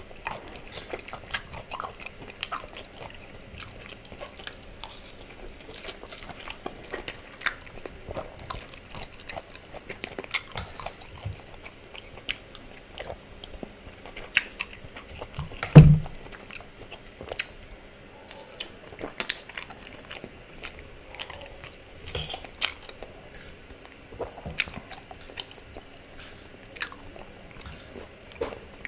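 Close-miked eating: chewing and biting into spaghetti and chicken wings, with many small clicks of a metal fork on the plate. One loud thump about halfway through.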